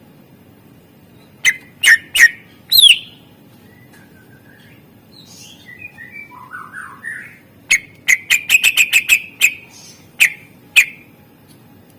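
Green leafbird (cucak ijo) singing: a few loud, sharp whistled notes and a falling note, then a softer warbling passage, then a fast run of sharp notes, ending with two single notes. A faint steady hiss runs underneath.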